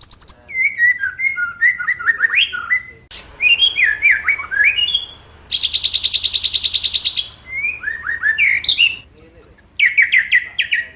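White-rumped shama (murai batu) singing: a quick run of varied whistled phrases sliding up and down, broken about midway by a fast, buzzy high trill about two seconds long, then more whistled phrases.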